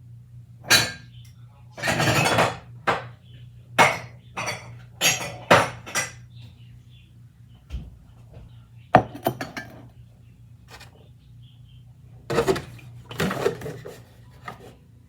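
Kitchen dishes, pans and utensils clattering and clinking in irregular knocks and scrapes, over a steady low hum.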